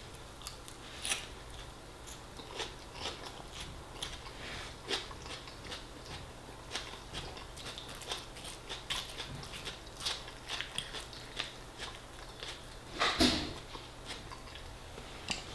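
Close-up chewing of lettuce salad and fisherman's pie: a steady run of small crunches and wet mouth clicks, with one louder noise near the end.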